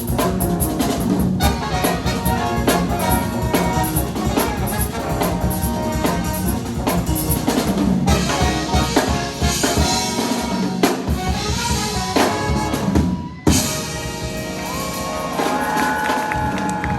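Live nine-piece band playing a loud, up-tempo number with horns and drum kit. About thirteen seconds in the sound breaks off abruptly, then long held notes ring out near the end.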